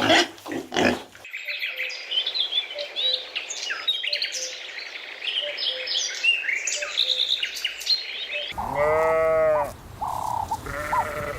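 A pig grunts briefly at the start, then many birds chirp busily in a dense chorus of short high calls. About eight and a half seconds in, this gives way to one long bleat, followed by shorter bleats near the end.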